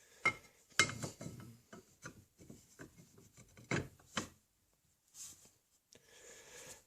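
Handwork on a wooden gunstock while its buttplate is being fitted: rubbing and scraping against the wood, broken by a few sharp knocks, two near the start and two about four seconds in.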